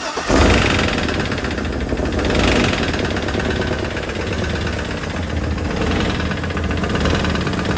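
A GM L94 6.2-litre V8 comes up loud just after the start, then runs steadily with a clattering knock from the bottom end. The owner takes the knock for a bad rod bearing.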